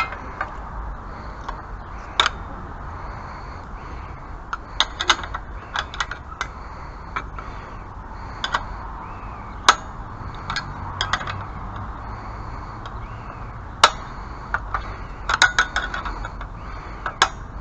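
Irregular clicks and light metallic knocks of hand tools and small hardware being handled and worked, coming in scattered clusters over a steady low background rumble.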